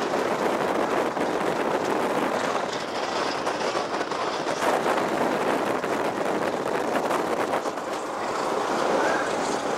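Passenger train running along the track, heard from a carriage window: a steady rumble of wheels on rail with faint clicks from the rail joints.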